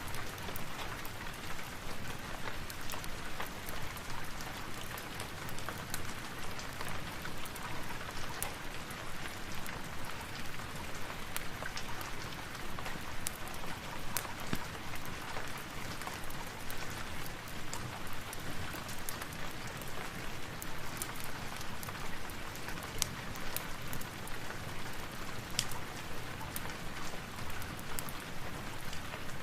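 Steady rain falling, with scattered sharp clicks throughout.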